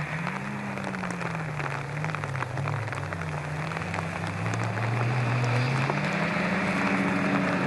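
Peugeot 205 GTI 1.9 rally car's four-cylinder engine heard from afar, its pitch dipping and climbing as it revs and shifts along the stage, with a steady crackly hiss over it.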